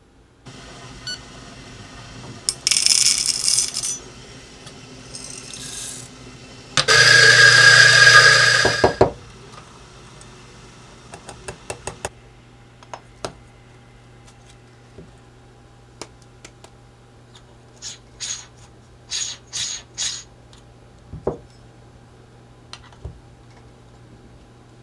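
Espresso preparation on a La Pavoni lever machine. A steady low hum, then two loud bursts of rushing noise, the second and louder lasting about two seconds, followed by a run of sharp metallic clicks and clinks.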